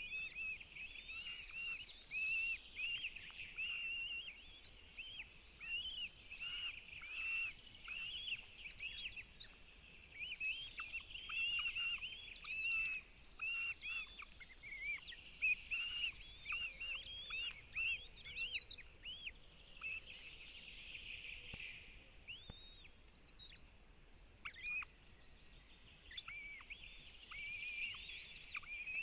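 Northern goshawk chicks calling in a long run of short, high, thin chirps, several a second, typical of begging while a parent feeds them.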